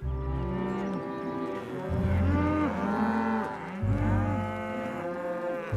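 Cartoon cows mooing several times, drawn-out low calls that rise and fall, over a soft background score.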